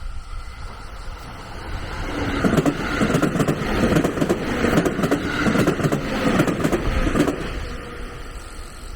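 A train passing close by, its wheels clattering over rail joints with a quick run of clacks, building up about two seconds in and dying away near the end. Insects keep up a steady high drone underneath.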